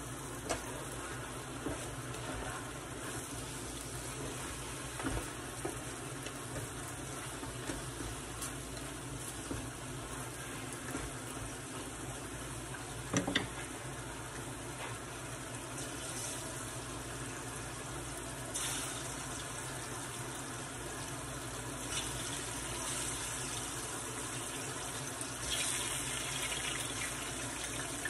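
Chicken and bell pepper fajitas sizzling steadily in a skillet, with a sharp knock about halfway through. In the second half, ripe plantain slices going into hot oil in a second pan add several brief, louder bursts of crackling.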